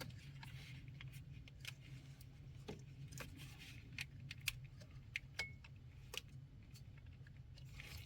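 Scattered light clicks and rattles of parts being handled, such as plastic wiring-harness clips being lined up and snapped on, over a faint steady low hum.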